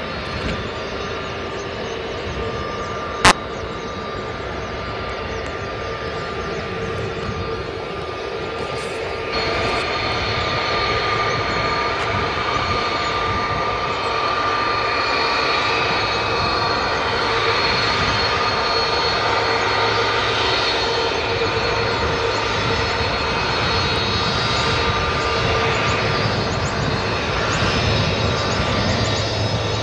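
Airbus A330-300 jet engines running with a steady, layered whine over a rushing noise, growing louder about nine seconds in and building slowly after that. There is a single sharp click about three seconds in.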